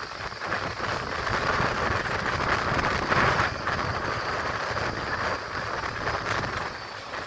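Passenger train running, heard from an open coach window: a steady rush of wind and wheel noise over a low rumble, swelling and easing a little.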